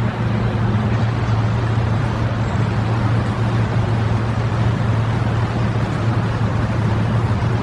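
A steady low mechanical hum with an even rushing noise over it. It begins at a sudden cut and holds without a break.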